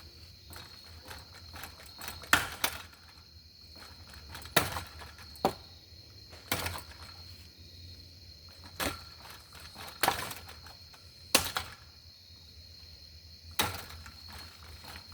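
A spinning Hunter three-bladed ceiling fan being struck again and again as its blades are smashed: about nine sharp knocks at irregular intervals over a steady high hum.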